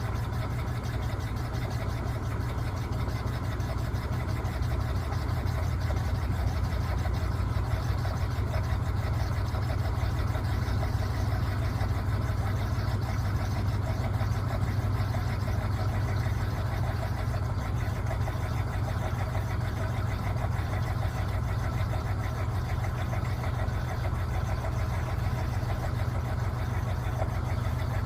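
Electrolux LTA15 top-loading washing machine running mid-cycle: a steady motor hum, strongest at the low end, with no pauses.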